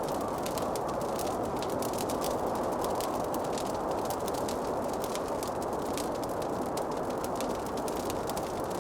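Fireplace fire crackling: many small, irregular sharp pops and snaps over a steady low rushing hiss.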